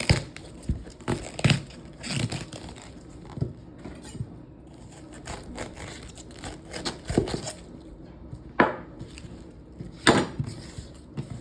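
Irregular knocks and light rustling from kitchen work, about seven separate knocks, the loudest two near the end.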